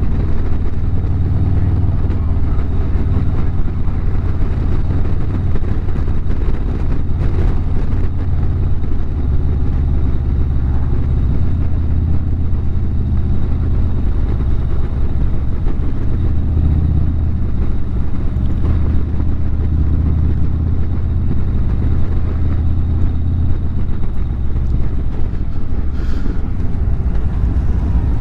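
Harley-Davidson V-twin motorcycle engine running steadily at cruise while riding on the road.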